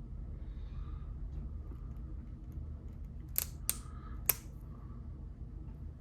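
Three sharp clicks from Lego pieces being handled, about a second apart, the last the loudest, over a low steady hum.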